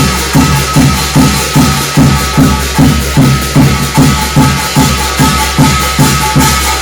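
Korean shamanic gut ritual music: a drum struck in a steady, even beat about three times a second, under a continuous shimmer of jingling metal percussion and a few held tones.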